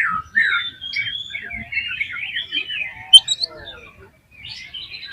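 Oriental magpie-robin singing a fast, varied song of warbles and sharp whistled notes, with a brief pause about four seconds in.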